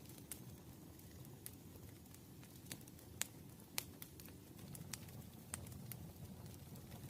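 Campfire burning: a faint, steady low rustle of flames with scattered sharp crackles and pops from the wood, the loudest two a little past three seconds and near four seconds in.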